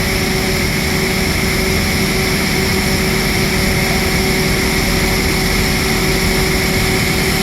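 Loud, steady running noise of a passenger train: a low rumble and hiss with several constant whining tones on top, unchanging throughout.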